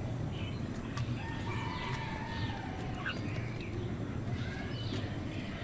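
A rooster crows once: a long, drawn-out call that falls slightly in pitch, starting a little over a second in. Many short bird chirps and calls run alongside it over a steady low hum.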